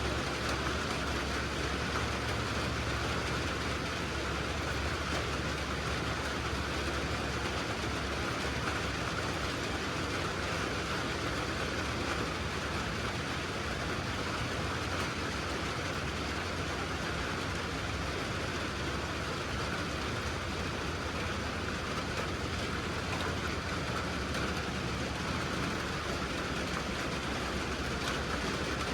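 A vehicle engine running steadily under a continuous hiss of rain.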